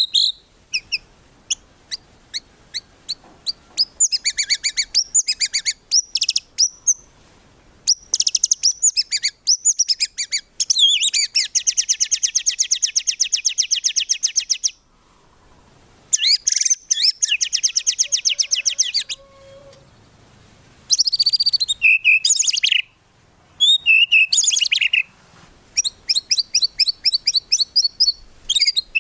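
White-rumped shama (murai batu) singing a loud, varied song: clear whistled phrases alternating with rapid trills, including a long fast trill about twelve seconds in, with short pauses between phrases.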